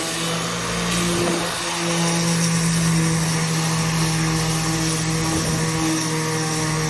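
Electric sander running steadily against the wood of a cabinet base, a constant motor hum under the hiss of abrasive on wood, smoothing out router tear-out.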